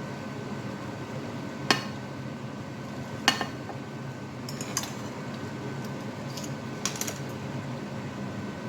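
Kitchen clatter of a pan and utensils: two sharp metal knocks about two and three seconds in, then a few lighter clinks, over a steady background hum.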